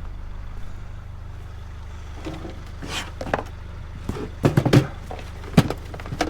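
A vehicle engine idles with a steady low hum, while several short knocks and clatters come between about three and six seconds in, loudest near five and a half seconds.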